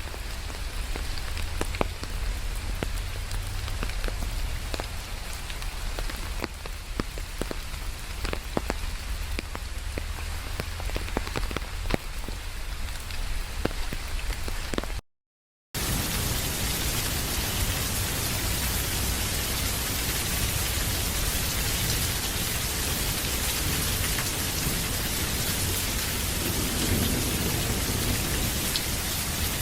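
Rain. At first, separate drops ticking over a low rumble; after a brief cut about halfway, it comes back as heavier, even, steady rain.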